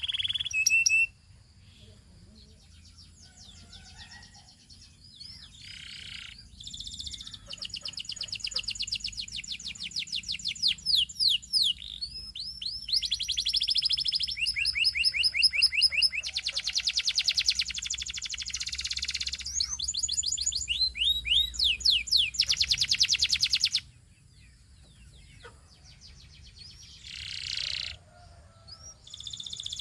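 Canary singing: rapid trills and rolls of fast repeated notes, many sweeping quickly in pitch. The song builds into a long, dense run through the middle, with quieter pauses near the start and end.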